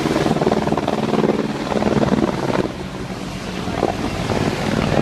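Boeing AH-64A Apache helicopter flying past, its twin turboshaft engines running and its rotor beating in rapid pulses. It is loudest in the first half and eases off about two and a half seconds in.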